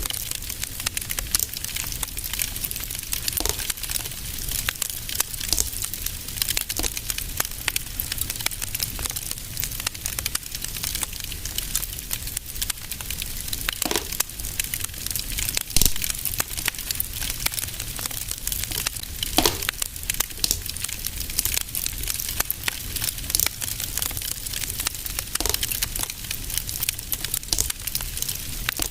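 Wood fire crackling in a fireplace: a dense, steady crackle over a low rumble, with a few louder pops about halfway through.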